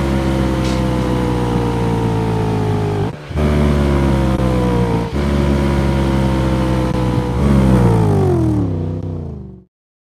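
Car engine running at high revs, its pitch slowly falling, with two brief breaks about three and five seconds in; near the end the pitch drops away steeply and the sound cuts off.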